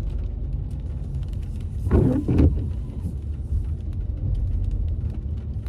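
Steady low engine and road rumble of a car on the move, with a brief louder sound about two seconds in.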